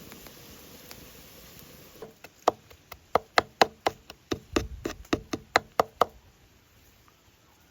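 Knife chopping on a cutting board: a quick run of sharp knocks, about four or five a second, starting about two seconds in and stopping about four seconds later.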